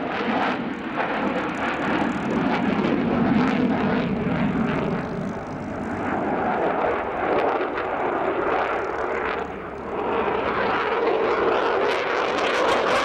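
A fixed-wing display aircraft flying, its engine noise steady and loud, dipping briefly a little before ten seconds in.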